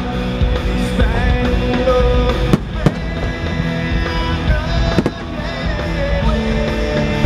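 Loud show music playing, with a few sharp bangs of aerial fireworks shells bursting, the clearest about two and a half and five seconds in.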